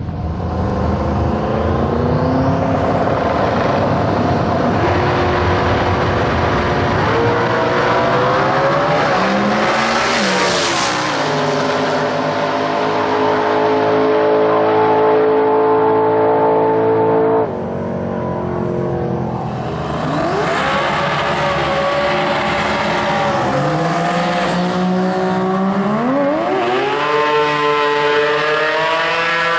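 Twin-turbo V8 of a Holden Torana drag car running hard. The revs climb, hold steady for several seconds, break off abruptly around the middle, then climb again in stages.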